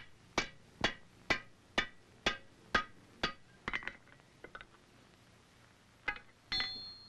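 Hand hammer striking a red-hot wrought-iron rifle barrel on an anvil, forge-welding the seam shut: a steady run of about two blows a second, then a few lighter taps, a short pause, and two strikes near the end that leave the anvil ringing.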